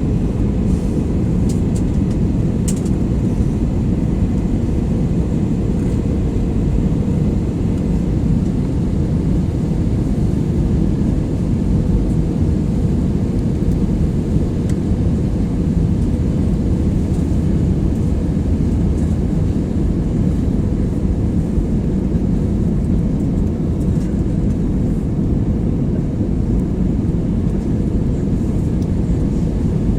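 Airbus A320 cabin noise in flight: a steady, low rumble of the engines and rushing air, with a faint steady whine above it.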